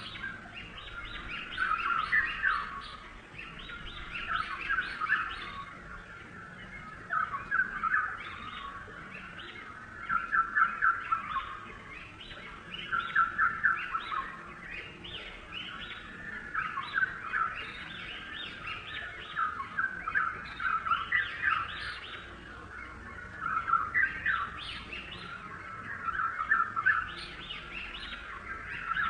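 Birdsong: bursts of rapid high chirps, each a second or two long, repeating every two to three seconds.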